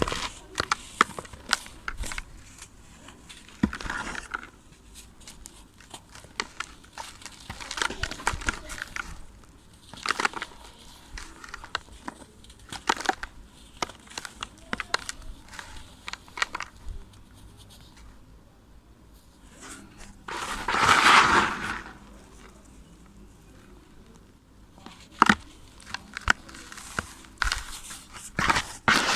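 Moulded pure sand crumbling: crisp crackles and crunches in short irregular bursts, with one louder, longer crumbling rush a little past two-thirds of the way through.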